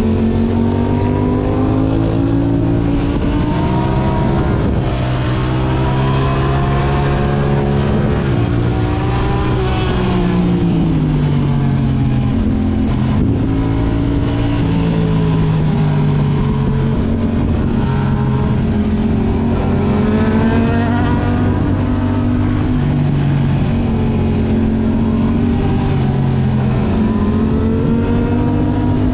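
Yamaha R6 inline-four sport-bike engine through an Akrapovic exhaust, revving hard and easing off again and again, its pitch rising and falling repeatedly as the bike accelerates and backs off.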